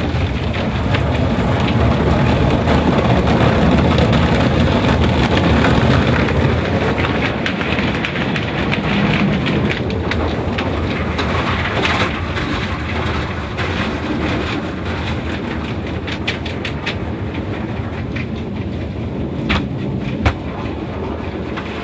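Automatic car wash machinery working over a car: a loud, steady rush that starts suddenly, with scattered rattling clicks in the second half.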